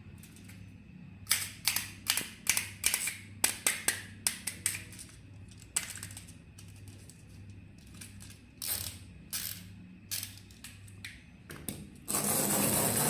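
Sharp plastic clicks and snaps from a battery-operated toy being handled: a quick run of them in the first few seconds, then sparser ones. Near the end a small electric toy motor switches on and runs with a loud steady whir.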